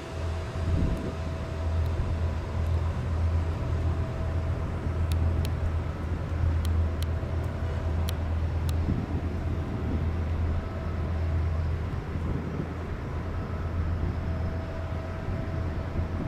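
Heavy machinery running with a steady low hum and a faint constant whine above it, with a few sharp metallic clicks in the middle.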